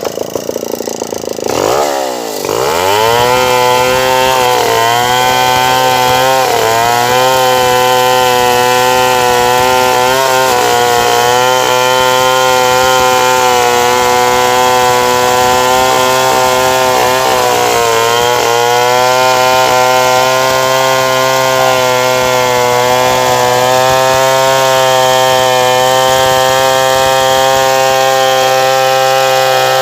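Stihl 070 two-stroke chainsaw revving up about two seconds in, then running at full throttle while cutting wood. Its pitch dips briefly a few times as the chain bites.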